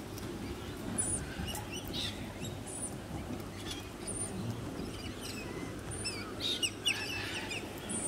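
Wild birds chirping: many short, high calls and squeaks scattered throughout, over a low steady background noise.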